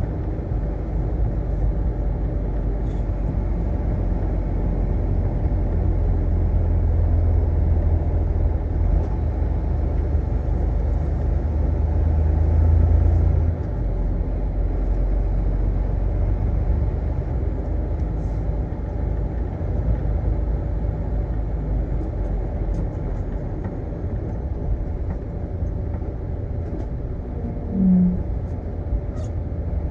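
Steady low engine and road rumble of a semi truck on the move, heavier for several seconds before easing off about halfway through. A short low tone sounds briefly near the end.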